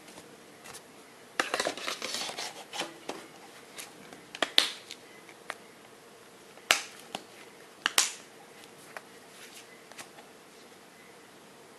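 Handling noises: a burst of crackly crinkling and clicks, then a few separate sharp clicks or snaps spaced a second or two apart, with a faint steady hum underneath.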